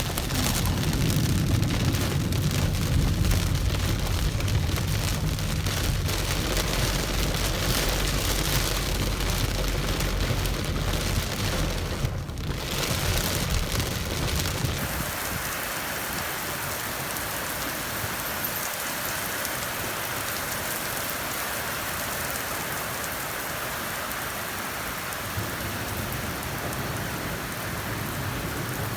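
Rain pouring down steadily in a storm, a constant hiss. A deep rumble runs under it for about the first half and then drops away, leaving only the rain.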